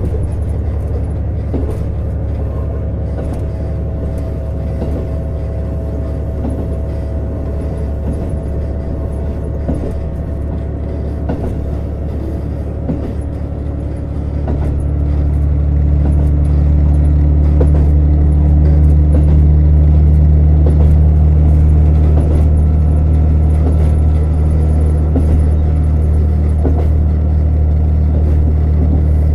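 Running sound inside a JR Hokkaido KiHa 150 diesel railcar: a steady low engine drone with wheel and track rumble. About halfway through it grows louder, the engine drone becoming stronger, as the engine is put under more power.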